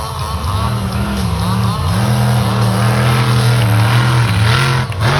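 Monster truck engine revving, its pitch rising and falling, then held high for a couple of seconds before dropping sharply near the end and climbing again.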